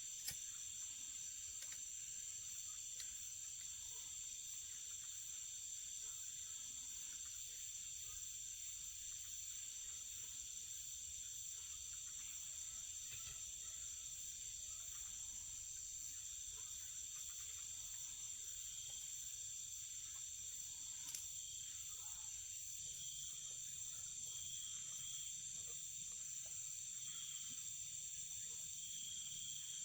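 Evening chorus of crickets and other insects: a steady, high, continuous chirring, with short repeated chirps joining in near the end.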